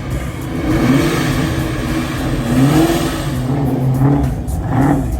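A car engine revved repeatedly, its pitch climbing and dropping about five times in quick succession.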